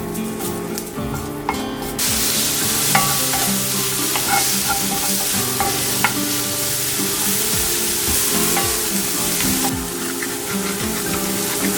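Food sizzling as it fries in a pan, with a few light knocks of a utensil stirring it; the sizzle swells about two seconds in and drops back near the end. Background music with sustained notes plays underneath.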